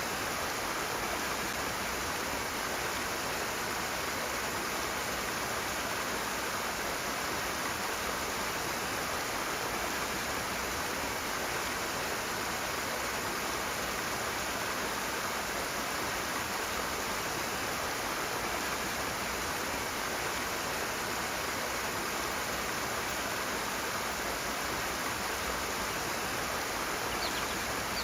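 Rushing water: a steady, unbroken rush that holds the same level throughout.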